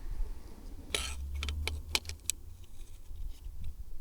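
Light clicks and clinks of a fuel pump module being handled, several sharp ticks close together about a second or two in, over a low rumble of handling noise.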